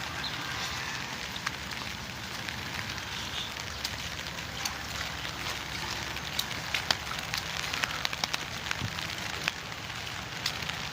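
Steady rain with a constant hiss and many irregular sharp taps of drops striking surfaces, the taps coming thicker in the second half.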